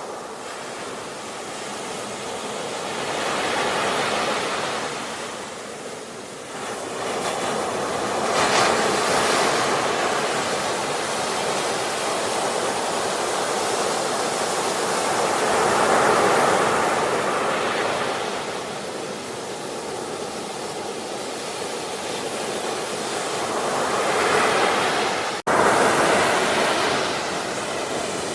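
Sea waves surging and breaking, a continuous wash that swells about four times and eases between. It cuts out for an instant near the end.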